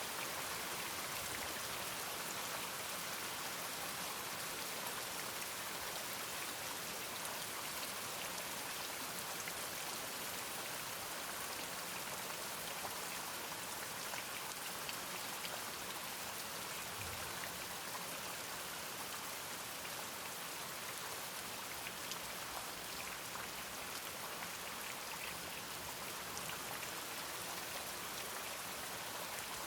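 Steady rain falling, with faint scattered drop ticks over an even hiss.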